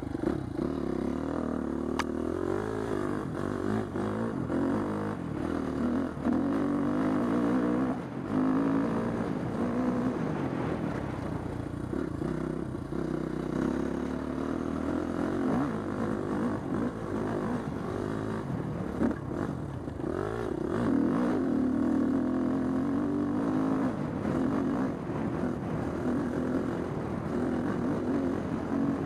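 Husqvarna TC250 dirt bike engine running while being ridden, its revs rising and falling as the throttle is worked, with a sharp click about two seconds in.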